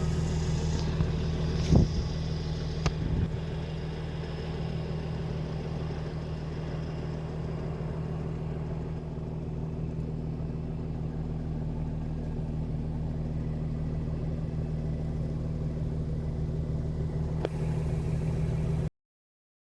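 2016 Jaguar F-Type S's supercharged V6 idling steadily, with two brief knocks about two and three seconds in. The sound cuts off suddenly near the end.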